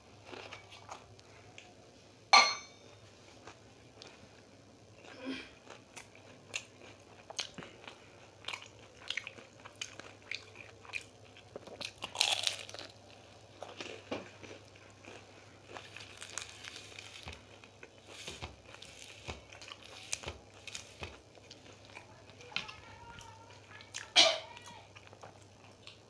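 Close crunching and chewing of fried samosas: irregular crisp bites and mouth sounds, with two sharp, louder knocks, one a couple of seconds in and one near the end.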